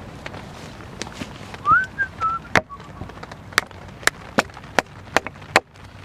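A brief whistle, rising then wavering, about two seconds in. Then an axe chopping into a block of wood in sharp, regular strokes, about two a second.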